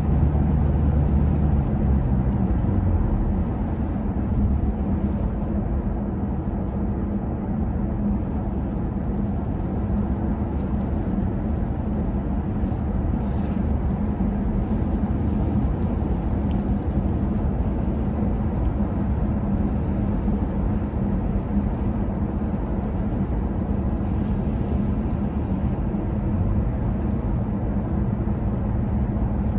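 Steady low rumble of vehicle noise, with a deeper hum in the first few seconds.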